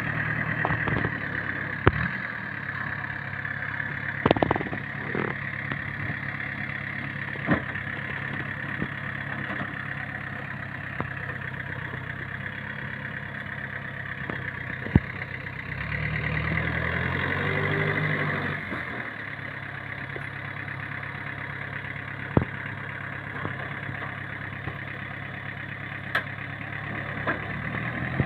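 Logging truck's diesel engine pulling uphill with a steady low drone, and sharp knocks or rattles now and then. A little past the middle the engine note shifts and grows louder for a few seconds, then drops back to the steady drone.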